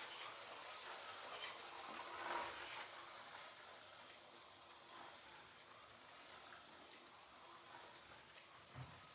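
Aurora HO slot car running on the track: a hissy high buzz from its small motor and pickup shoes for about three seconds, then fading to a faint hiss.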